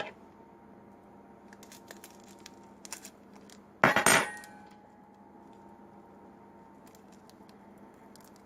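A brief clatter of dishware, a bowl or utensil clinking, about four seconds in, with a few light clicks before it and a faint steady hum underneath.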